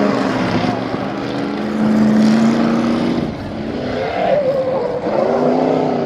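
A motor vehicle's engine held at high revs, easing off about three seconds in and then revving back up.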